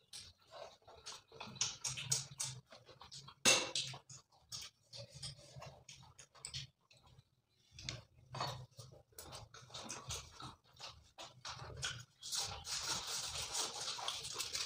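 Close-miked eating sounds: wet chewing, lip-smacking and mouth clicks as chicken lollipop and an egg chicken roll are bitten and chewed. A denser crinkling rustle, like aluminium foil being handled, starts about two seconds before the end.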